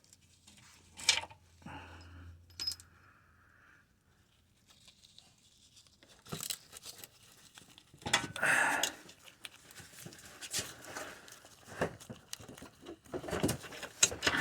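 Irregular clinks, scrapes and rattles of hand tools on metal as the bolts of a car's radiator bracket are worked loose, with a longer scraping rattle about eight seconds in.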